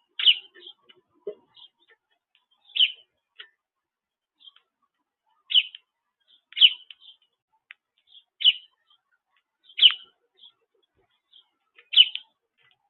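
A small songbird chirping: single short, loud notes every one to three seconds, seven in all, with fainter chirps in between.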